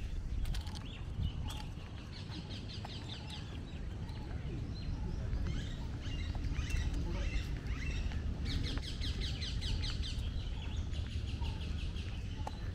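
Birds chirping, with two bursts of fast trilled calls, one about two seconds in and a longer one near nine seconds, over a steady low rumble.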